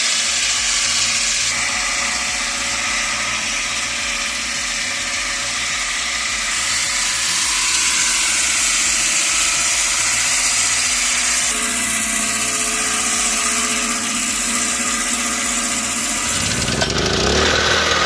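Homemade saw with a large toothed circular blade running and cutting through a log: a steady, loud mechanical whine with a hissing edge that shifts in pitch from cut to cut. About sixteen seconds in it gives way to a lower engine running.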